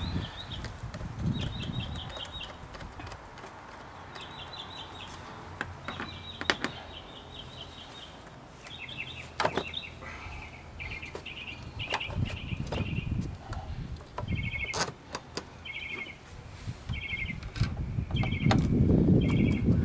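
A small bird singing short trilled chirping phrases over and over. Scattered clicks and knocks come from hands working on the air intake, and wind rumbles on the microphone near the end.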